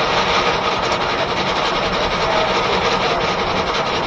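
1880s R.R. Howell left-hand sawmill driven by a steam engine, running with a loud, steady machinery noise.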